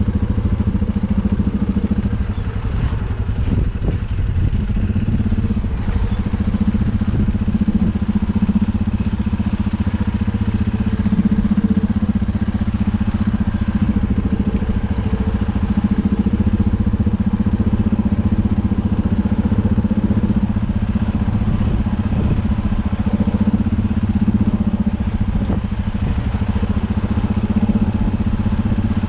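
Universal 650 tractor's four-cylinder diesel engine running steadily at an unchanging pitch.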